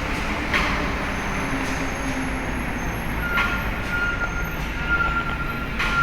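Heavy diesel truck engines running steadily in a ship's vehicle deck, with a few sharp metallic knocks and a steady high whine that starts about three seconds in.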